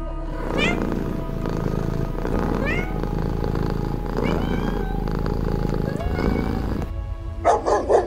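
A domestic cat meowing about four times, each call gliding in pitch. Near the end a dog starts barking in quick bursts.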